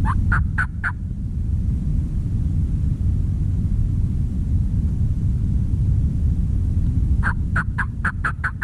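Wild turkey calls: a short run of rapid, clipped notes at the start and a longer run of about eight notes near the end, over a steady low rumble.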